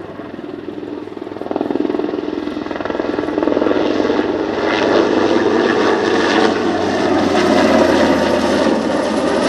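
NH90 helicopter flying past, its rotor beating and turbines running. It grows louder about a second and a half in and stays loud, with a faint high whine sliding down near the end.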